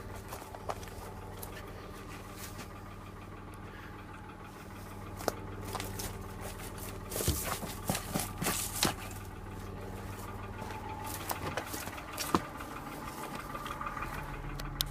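2006 Suzuki Verona's inline-six engine idling steadily, with a few sharp clicks and knocks about a third of the way in, around the middle and near the end.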